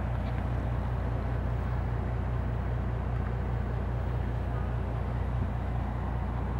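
Bentley Continental GT coupe's engine idling steadily, a constant low hum with an even fine pulse.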